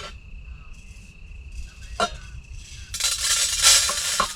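An insect trills steadily on one high note. A single click comes about two seconds in, and from about three seconds a louder stretch of rustling handling noise with a few light clinks covers the trill.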